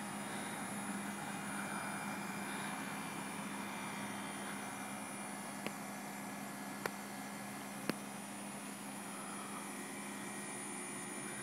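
Outdoor unit of a 5-ton Carrier Infinity Greenspeed 25VNA variable-speed heat pump running at full (100%) capacity: a steady fan whoosh over a low hum. Three faint ticks come in the middle.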